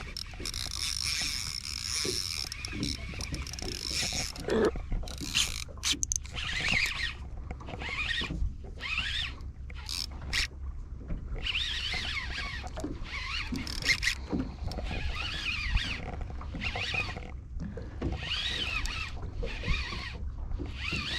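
Small fishing reel being cranked to bring in a hooked fish, its winding coming in short repeated bursts about once a second, over the boat's steady low hum.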